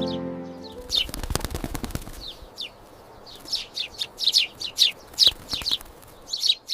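Background music ends about a second in, followed by small birds chirping in many quick, sharp falling notes. A burst of rapid clicking comes just after the music stops.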